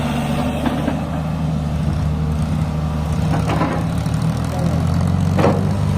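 Heavy diesel engine of a tractor running steadily at a constant speed, with a few brief voices over it.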